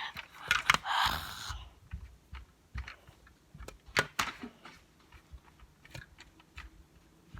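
Handling noise: a brief rustle about a second in, then scattered light clicks and knocks as objects are moved about by hand.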